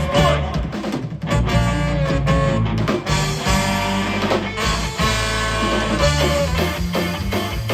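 Live band playing an instrumental passage with electric guitar lead, bass and drum kit.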